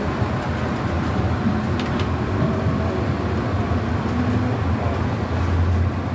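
MTR train running: a steady low rumble and hum, with a few faint clicks about two seconds in.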